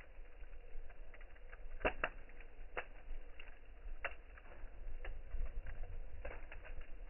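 Campfire crackling and popping in irregular sharp snaps, over a steady low rumble of wind on the microphone.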